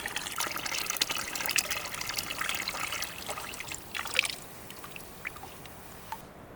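Liquid trickling and splashing with many small clicks, stopping about four seconds in, followed by a few faint clicks.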